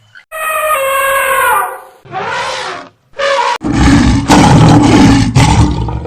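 A series of loud animal calls: a pitched call lasting over a second, a shorter rougher call, then from about three and a half seconds in a long, loud, low call.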